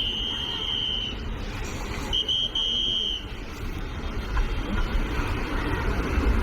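Electric train passing on the track with a steady rumble that grows louder toward the end. A high, steady whistle-like tone sounds twice over it: briefly at the start, and again about two seconds in as a short blip followed by a longer note.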